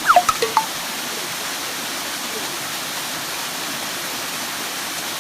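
Waterfall and stream water rushing steadily. A few short falling-pitch sounds cut in right at the start.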